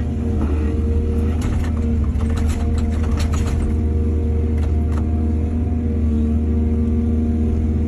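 Excavator's heavy diesel engine running steadily. Sharp clattering knocks come from about a second to three and a half seconds in, with two more near five seconds.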